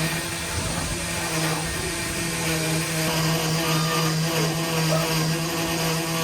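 A steady engine or motor hum at a constant, low pitch, with a faint pulsing in the tone, running without change.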